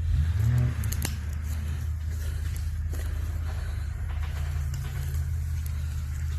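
Jeep Cherokee XJ engine running at low revs, with a brief rise in pitch in the first second and then running steadily, with a few scattered clicks over it.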